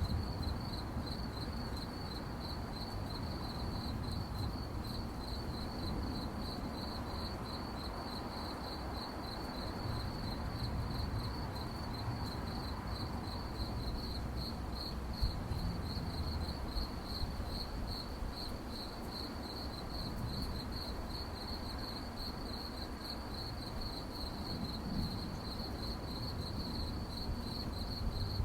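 Crickets chirping at night in a steady, fast pulsing trill, over a low background rumble.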